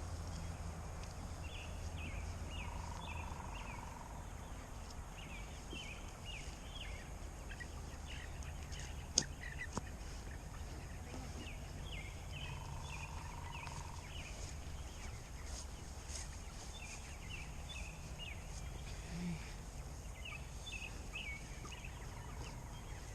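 Cornish Cross meat chickens peeping and cheeping, short high calls in repeated clusters over a low outdoor background, with one sharp click about nine seconds in.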